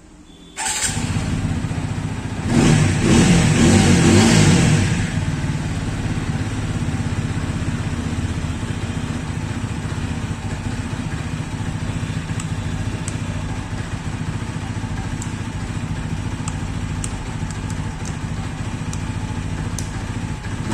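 TVS Apache RTR 200 4V's single-cylinder engine starting up suddenly, revved for about two seconds, then idling steadily through the exhaust.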